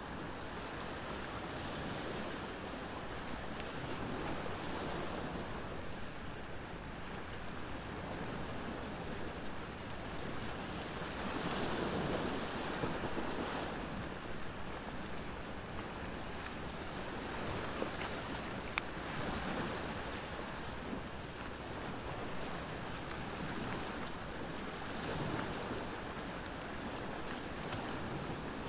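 Ocean waves washing ashore in slow swells, one building most strongly about twelve seconds in, with a few sharp pops from a burning wood fire around the middle.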